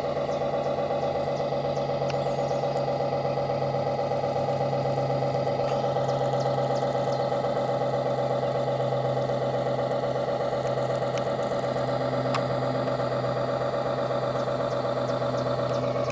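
Small motor and drive of a radio-controlled model tugboat with Voith Schneider propulsion running at a steady speed: an even, pitched hum with a fast buzzing pulse and no change in speed.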